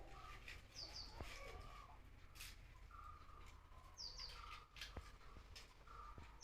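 Faint bird calls: a high, quick two-note chirp repeating about every three seconds, with shorter, lower calls in between.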